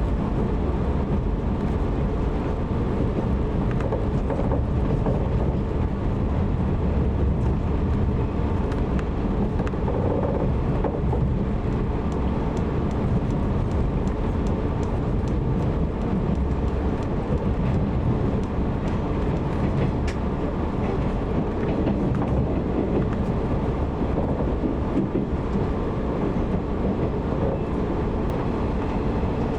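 Running noise of a 185 series electric train heard from inside the passenger car: a steady low rumble of wheels on rail, with a few faint clicks.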